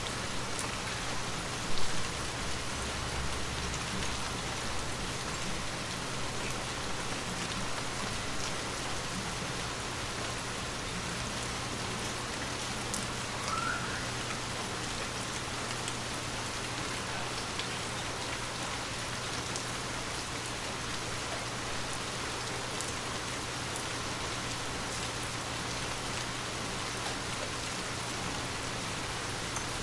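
Steady rain falling on a window, an even hiss of drops with scattered small ticks, and one brief louder knock about two seconds in.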